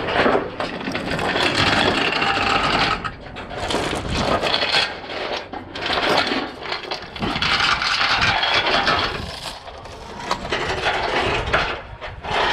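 Scraping and rattling from hands-on work on flatbed load-securement gear, in about five long noisy strokes of one to two seconds each.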